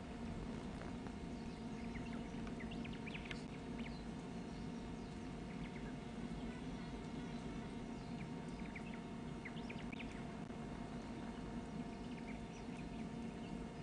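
Small birds chirping in short clusters of quick high notes, over a steady low background hum.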